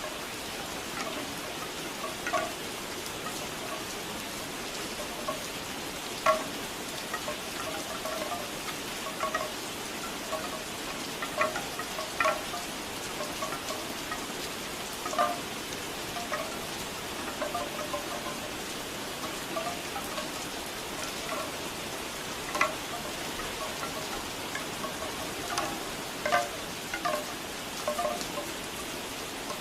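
Bamboo wind chimes clacking in short, irregular knocks of a few pitches over steady rain.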